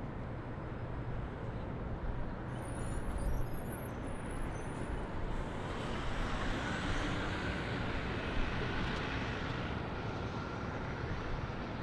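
City road-traffic hum, steady throughout. A brief high-pitched squeal comes about three seconds in, and the noise of a passing vehicle swells up about halfway through before easing off.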